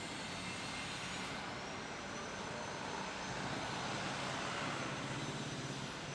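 Jet airliner engines running, a dense steady rush with a thin high whine that comes in about a second and a half in; the sound swells a little toward the middle and eases near the end.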